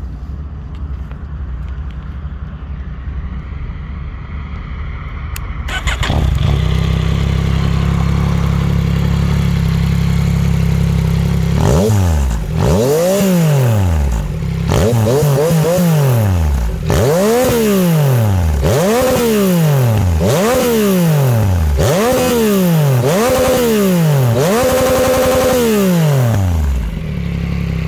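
Yamaha MT-09 (2021) 890 cc three-cylinder engine through a Dominator HP3 full exhaust system. It idles steadily, a little louder from about six seconds in, then is revved in about eight quick throttle blips that rise and fall in pitch. The last rev is held briefly before it drops back to idle.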